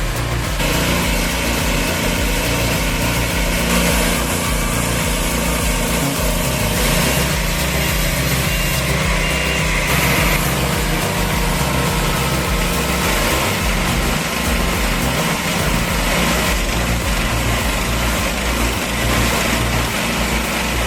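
An engine-driven machine running steadily.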